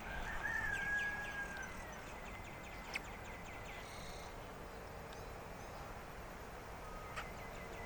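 Birds singing and calling outdoors. One long whistled note comes near the start, over a run of quick, high chirps, against a steady low background rumble.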